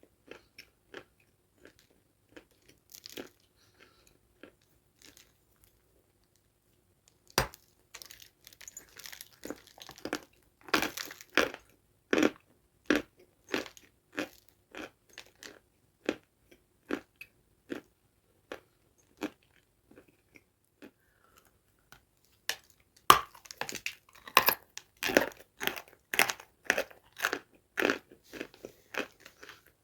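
Close-miked bites and chewing of a dry, crunchy food, with sharp crackling crunches. The crunching is light at first, turns dense after a bite several seconds in, eases off, then comes back loudest after another bite near the end.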